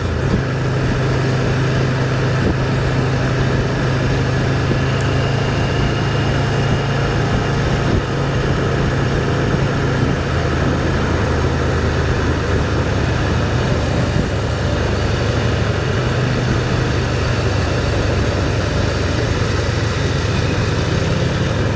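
Can-Am Spyder three-wheeled motorcycle engine running steadily at cruising speed, with a low drone under wind and road noise.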